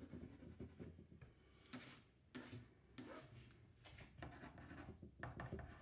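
Faint, short rubbing and scratching strokes on drawing paper, a handful of them spread through a near-silent stretch.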